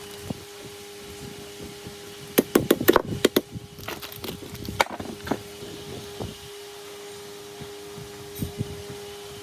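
A quick run of sharp wooden knocks and clatter about two and a half seconds in, then scattered lighter taps, over a steady hum.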